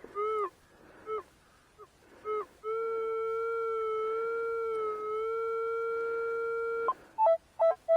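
Metal detector's audio tone answering a buried target: a few short beeps that swell and fade as the coil sweeps, then one long steady tone held for about four seconds, then a run of quick higher-pitched beeps near the end. It is a nice signal, relatively deep.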